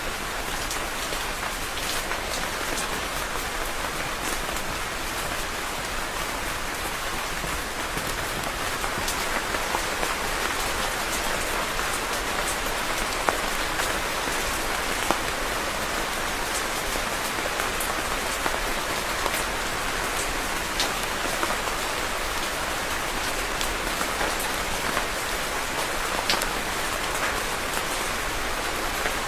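Steady rain falling on a surface, a constant hiss with many separate drop ticks and a few sharper, louder drops scattered through.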